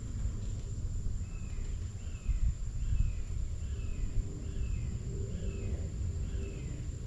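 A bird calling repeatedly: about seven short, falling notes a little under a second apart, over a low outdoor rumble.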